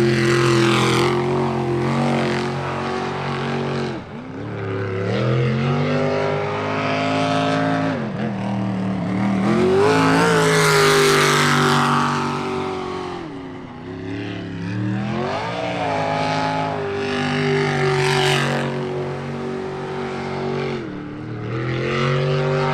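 Jet sprint boat's engine racing through a course, revving up and dropping off again and again through the turns. Loudest about halfway through, where the pitch climbs and then falls as the boat passes close.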